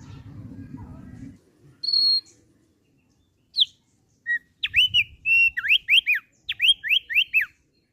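Thick-billed white-eye (opior paruh tebal) singing. A few separate high whistles come first, then, from about halfway in, a quick run of about ten sliding whistled notes, most of them falling.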